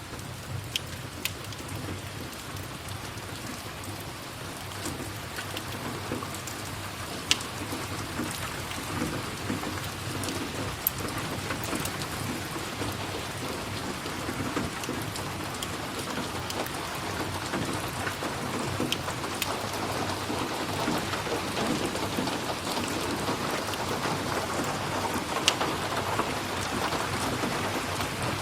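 Steady rain falling, slowly growing louder, with a few sharp crackles now and then.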